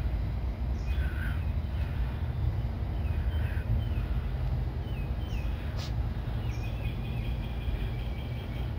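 Outdoor ambience: a steady low rumble with birds calling. There are a few short calls, a sharp click a little before six seconds in, and a quick run of rapid repeated notes near the end.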